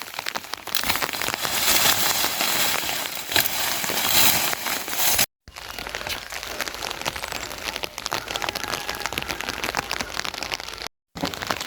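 Steady rain falling, a dense patter of drops on surfaces. It cuts out abruptly twice for a moment, about five seconds in and near the end.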